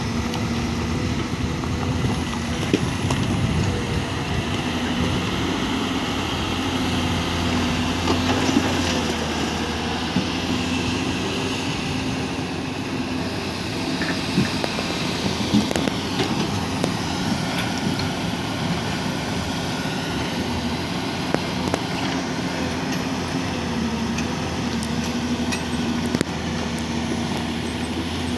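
Excavator's diesel engine running steadily under load, its pitch wavering slightly, with a few sharp metallic knocks now and then.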